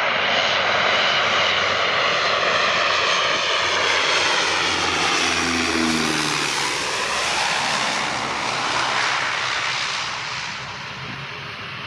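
Dash 8 twin-turboprop airliner passing close as it lands, loud engine and propeller noise whose tones drop in pitch about six seconds in as it goes by, then easing off toward the end.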